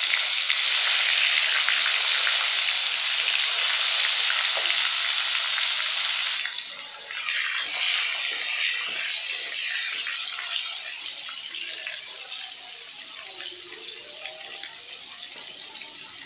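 Sliced pointed gourd (potol) frying in hot oil: a loud, steady sizzle that eases about six and a half seconds in and carries on quieter and more uneven as the pieces cook.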